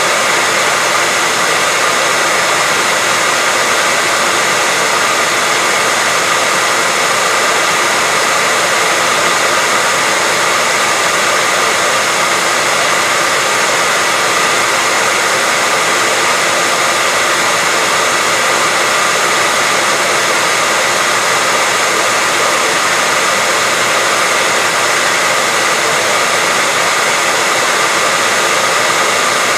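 Hairdryer running steadily with an even airy rush and a faint whine from its fan motor.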